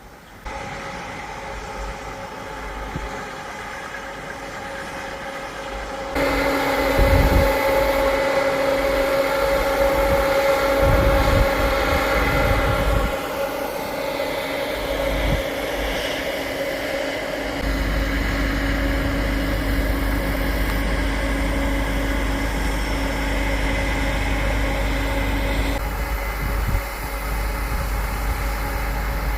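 Farm harvest machinery engine running steadily. The sound changes abruptly several times: louder about six seconds in, with a deep rumble joining later.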